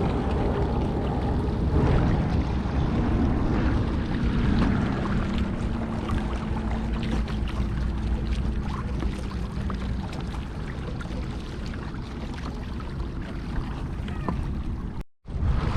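Wind buffeting the microphone over water noise from a pedal kayak underway, with a faint steady hum for several seconds. The sound drops out for a moment near the end.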